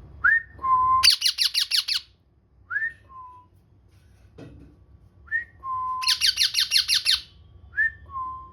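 Pet parrot whistling: a short rising whistle that drops to a lower held note, then a fast run of about eight sharp pulsed notes a second, the same phrase coming twice.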